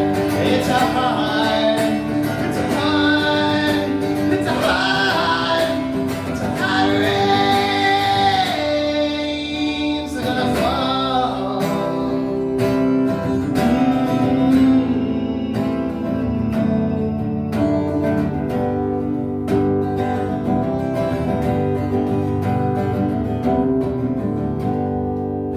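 A male voice singing long held lines over a fast-strummed guitar. About halfway through the voice drops out and the guitar strums on alone, fading at the end.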